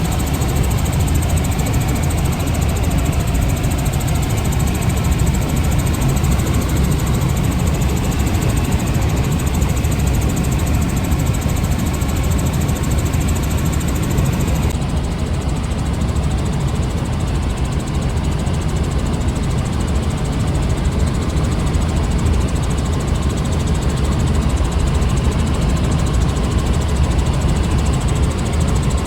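A steady, low-pitched engine running without change throughout.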